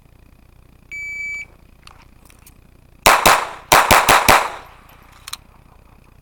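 Shot timer beeps once about a second in. About two seconds later a GSG 1911 .22LR pistol fires a quick string of about six shots: two, a short pause, then four more.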